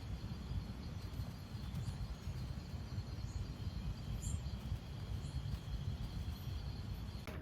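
Forest ambience at dusk: a steady high insect drone over a low, fluctuating rumbling noise, with a brief high bird chirp about four seconds in.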